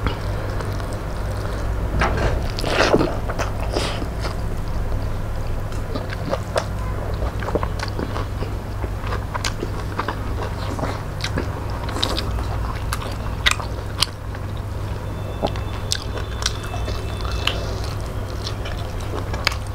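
Close-miked chewing and mouth sounds of two people eating rice and fish curry by hand, with frequent short, sharp smacks and clicks. A steady low hum runs underneath.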